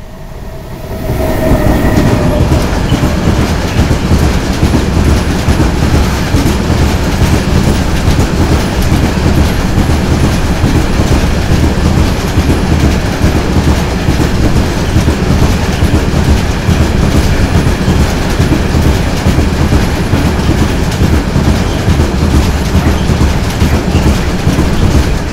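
A freight train passing close at speed: the locomotive draws level about a second in, then a long string of loaded bogie hopper wagons rolls by. The wheels on the track make a steady loud rumble and clatter, with a clickety-clack running through it.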